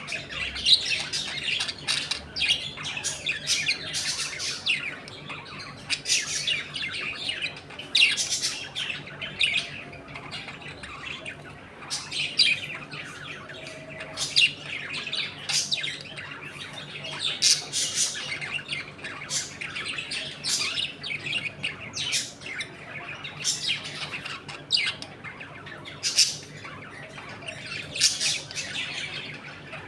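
A colony of budgerigars chattering continuously, with rapid warbling chirps and frequent sharp squawks layered over one another.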